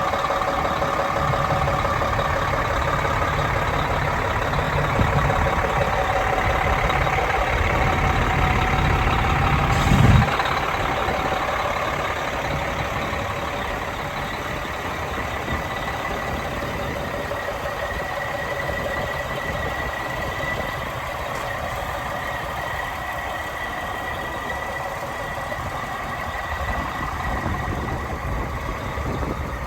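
Peterbilt 377 truck's Cat 3176 straight-six diesel idling steadily, with one thump about ten seconds in; the engine sound is quieter for the second half.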